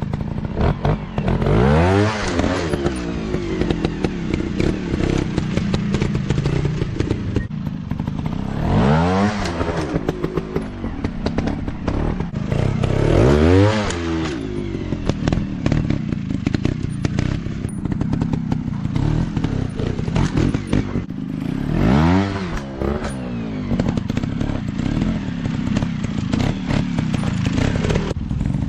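Off-road dirt bike engines running and revving. The pitch surges up and falls back four times, with uneven throttle in between.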